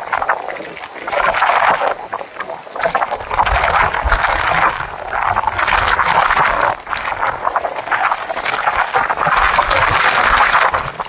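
Typhoon-force wind rushing in repeated gusts that swell and ease every second or two, with wind buffeting the microphone as a low rumble through most of it.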